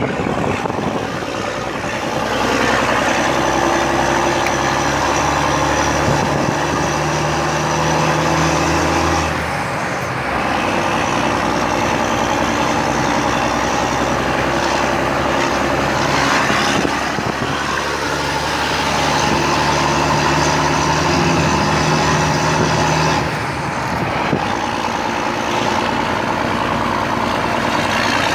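Renault 300 truck's diesel engine running with an open exhaust, at a loud idle. It is revved up and held twice, for several seconds each time, and drops back to idle after each.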